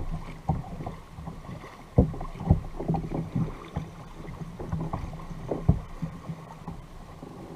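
Kayak on the sea: irregular dull knocks and splashes of water and gear against the hull, about two dozen over the stretch, the loudest about two seconds in and near six seconds, over a faint steady hum and wind noise.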